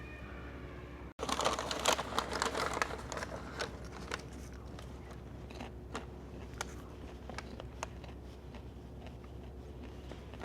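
Popcorn bag crinkling and popcorn being crunched and chewed close to the microphone: a dense crackly run just after a second in, thinning to scattered crunches.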